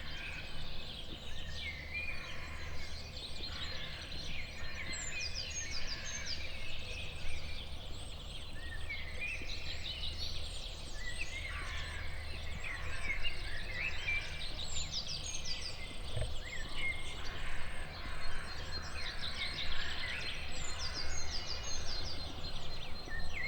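Morning chorus of several songbirds singing at once, one of them repeating a quick run of high notes every few seconds, over a steady low rumble.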